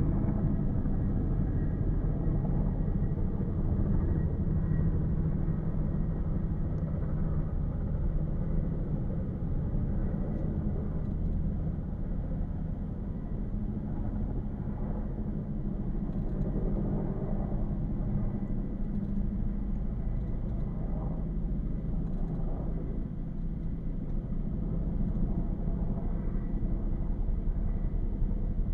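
Firefighting helicopter's rotor and engine running, a steady low rumble that holds throughout.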